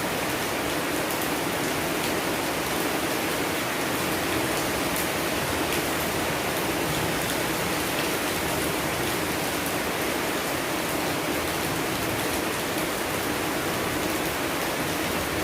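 Steady rain falling and pattering on surfaces, with scattered sharp drop ticks.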